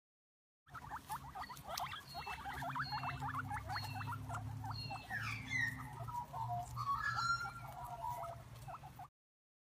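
A small rodent making a rapid run of short chirps and squeaks, with a few longer gliding squeaks about halfway through, over a steady low hum.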